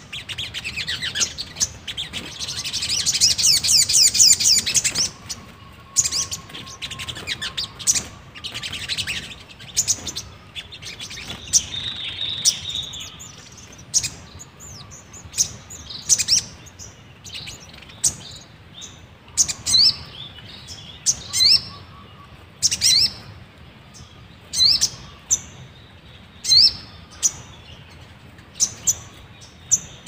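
Sogon birds calling: a loud, fast twittering run in the first five seconds and a shorter one near ten seconds, then sharp single chirps about once a second.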